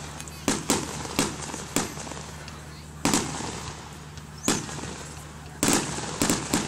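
Aerial fireworks shells bursting: about ten sharp bangs at uneven intervals, several in quick succession near the end.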